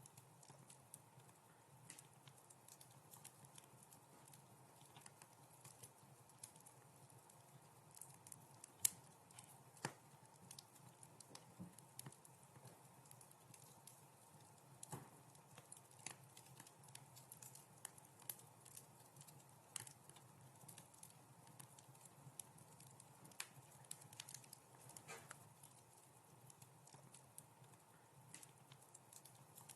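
Wood fire in a fireplace crackling faintly, with irregular small pops and snaps over a faint steady background; the sharpest pop comes about nine seconds in.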